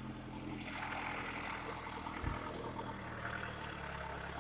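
An engine idling steadily, with a short low thump about two seconds in.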